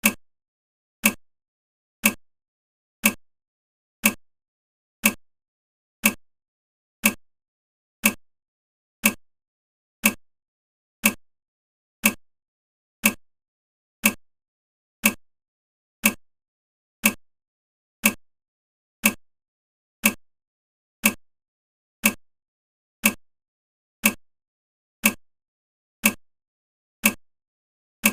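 A short, sharp tick repeating evenly once a second, with silence in between.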